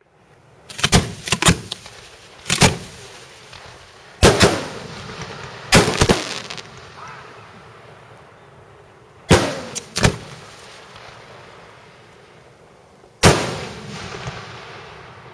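Aerial firework ball shells bursting in the sky: a series of about a dozen sharp bangs, some in quick pairs, each trailing off in a rolling echo, with the last one near the end.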